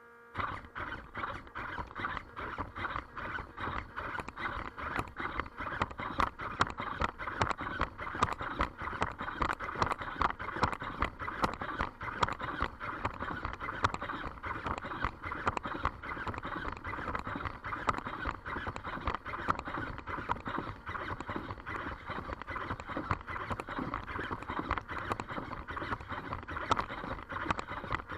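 3D-printed quadruped robot dog walking: its leg motors whirring and its plastic feet tapping rapidly and continuously on a hard floor.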